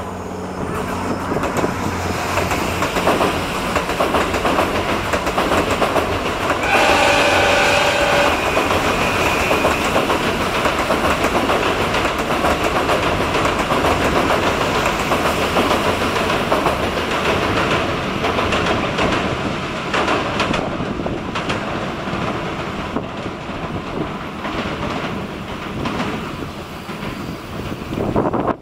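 The Twilight Express Mizukaze sightseeing train running across a steel girder railway bridge, a steady heavy rumble with wheels clattering over the rails that eases off toward the end as the train moves away. About seven seconds in, a pitched tone sounds over the rumble for about two seconds.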